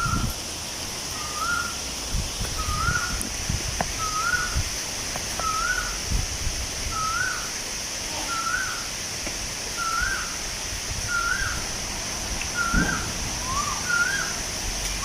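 A bird repeating a short upslurred whistled note about every second and a half, eleven or so times, over a steady high insect drone and soft gusts of wind.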